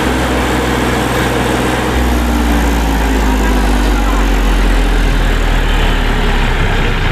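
Eicher 333 tractor's diesel engine running steadily, then revving harder about two seconds in and staying heavily loaded, as the tractor strains with a load of soil it cannot pull out.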